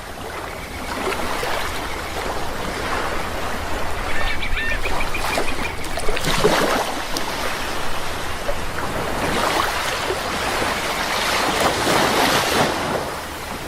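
Sea waves washing in, rising and falling in repeated surges, with a bird giving a short run of repeated calls about four seconds in.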